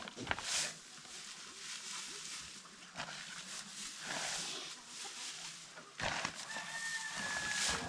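Farmyard animal sounds mixed with rustling and handling noises, with a thin whistle-like tone near the end.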